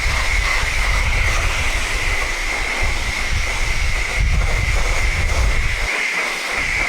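Self-serve car-wash pressure wand spraying: a loud, steady hiss with a high whine, starting suddenly as the trigger is squeezed. The deeper rumble in the spray drops away about six seconds in.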